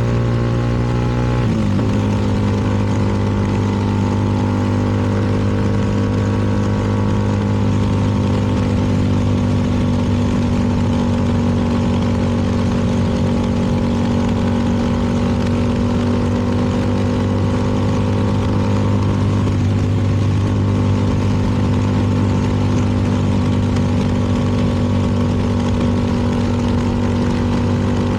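CFMoto 300NK's single-cylinder engine running at a steady pitch, with one drop in engine speed about a second and a half in before it settles.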